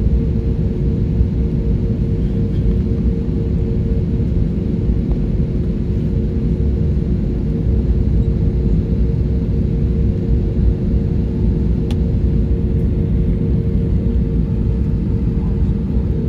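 Aircraft engine noise: a loud, steady low rumble with a constant hum on top.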